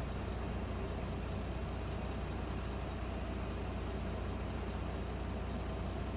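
Former JNR-type electric train's steady low hum and running noise, holding at an even level.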